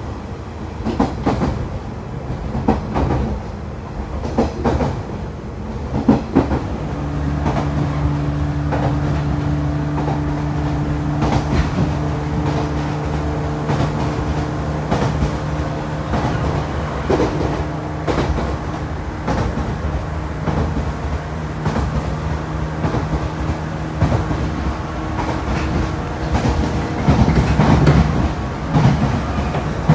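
Running noise inside a JR West 113 series 5700-subseries electric train car, an old resistance-controlled set with MT54 traction motors: a steady rumble of wheels on rail with repeated clickety-clack knocks from rail joints. A steady low hum sets in about seven seconds in and fades out after about twenty-four seconds.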